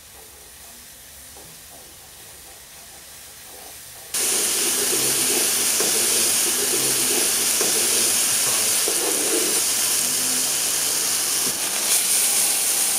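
Fried rice sizzling in a hot pan as it is stir-fried with a spatula. Faint for the first four seconds, then a loud, steady hiss starts suddenly.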